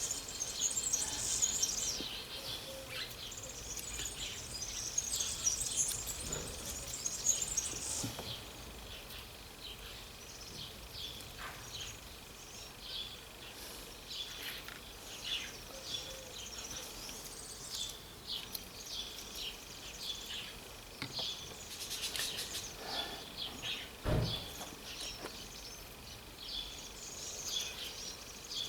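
Birds chirping and singing, many short high calls overlapping, thickest in the first eight seconds and sparser after. One dull knock sounds late on.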